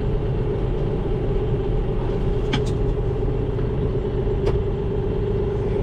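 Farm tractor engine running steadily while the tractor is driven along, with a few brief knocks or clanks in the middle.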